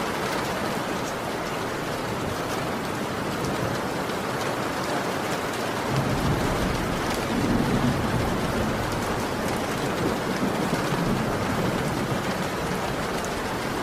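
Steady heavy rain. About six seconds in, a low roll of thunder rumbles in under it and rolls on for several seconds.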